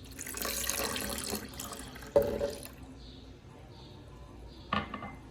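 Liquid running or pouring for about two and a half seconds, with a sharp knock about two seconds in and another knock near the end.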